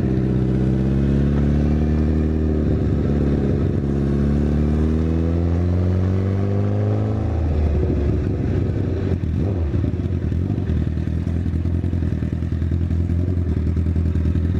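Honda CBR1000RR Fireblade's inline-four engine with a Yoshimura exhaust, riding slowly: the revs climb gradually for about seven seconds, then fall suddenly and the engine runs low and uneven, near idle, to the end.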